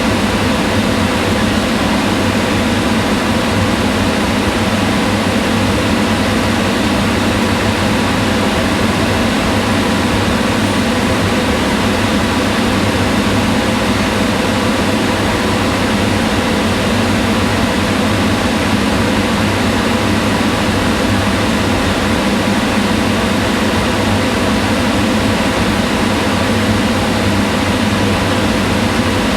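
Kitchen range hood fan running at a steady speed: an even rush of air over a low hum.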